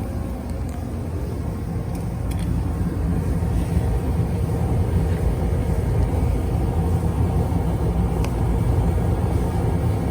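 Clothes dryer running, a steady low rumble from the motor and turning drum that grows a little louder a few seconds in.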